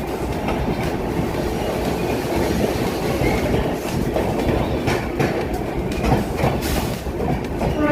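A passenger train running at speed, with a steady rumble and the wheels clacking over rail joints. A train horn starts just as it ends.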